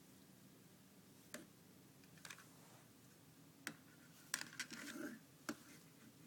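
African grey parrot rummaging in a desk drawer: a few sharp, faint clicks spread out, with a short scrabbling rustle about four to five seconds in.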